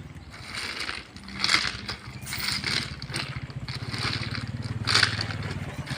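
Truck engine idling with a steady low pulsing drone, under a series of short crunches of loose gravel and rock.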